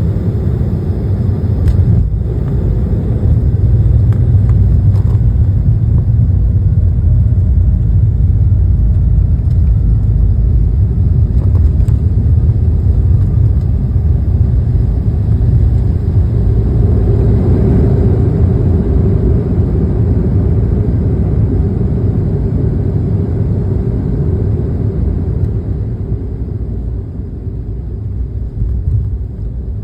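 Airliner cabin noise during landing: a loud, steady low rumble of the jet's engines and airframe, with a faint falling tone in the first half. The rumble swells somewhat past the middle and eases off near the end.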